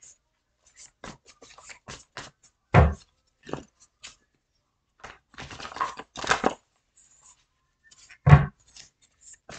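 Tarot cards being handled on a table: scattered light rustling and flicking, with a thump about three seconds in and another near the end.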